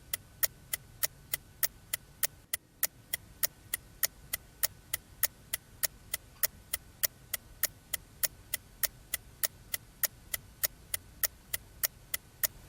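Clock ticking steadily, about three to four sharp ticks a second, with a faint steady high tone underneath: a waiting or countdown tick while the candles burn down.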